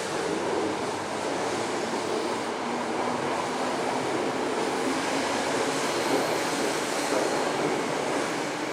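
Train running steadily, a continuous even noise with a faint low hum.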